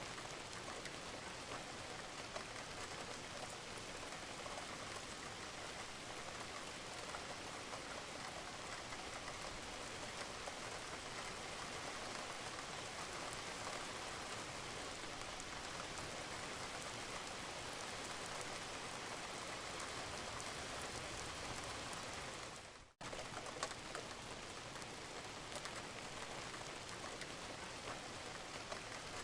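Steady rain falling on a roof, an even hiss with scattered small drip ticks. The whole sound dips out for a split second about 23 seconds in, then resumes.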